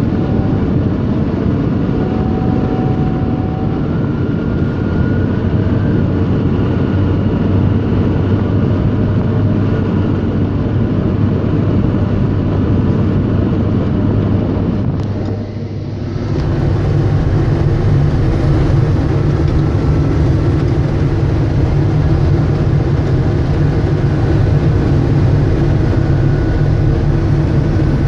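John Deere 624J wheel loader's diesel engine running steadily under load. About halfway through, the sound dips briefly and then comes back with the engine running at a higher pitch.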